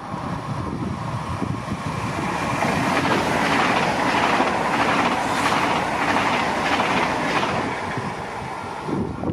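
A train passing through the station without stopping: the rumble and wheel clatter build, are loudest through the middle with a repeated clacking of wheels, then fade near the end.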